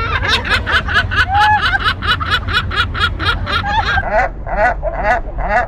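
Gull giving a rapid series of short laughing calls, about five a second, slowing to about two a second two-thirds of the way through, over a steady low rumble.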